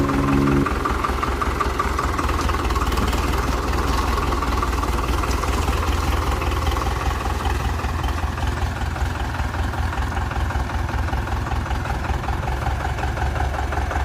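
Powertrac tractor's diesel engine idling steadily with an even low throb.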